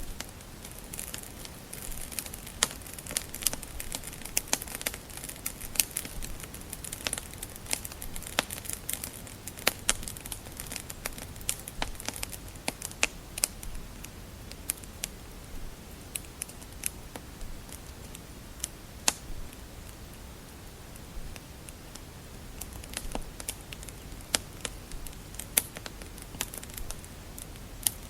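Wood fire crackling in a fireplace: irregular sharp pops and snaps over a soft hiss and low rumble. The pops come thickest in the first half and again near the end, sparser in between.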